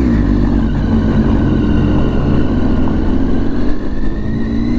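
Triumph Tiger 800 XCA's three-cylinder engine running under way at low speed. Its pitch dips at the start, holds steady, then climbs slowly toward the end as the bike picks up speed.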